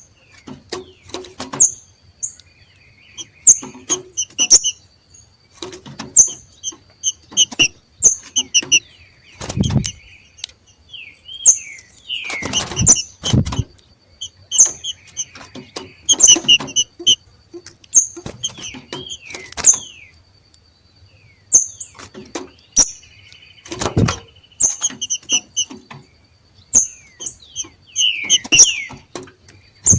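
Trinca-ferros (green-winged saltators) giving the macheado: short repeated chirps and quick falling whistled notes. This call is the sign of birds coming into breeding condition. Loud thumps break in several times, the heaviest about ten, thirteen and twenty-four seconds in.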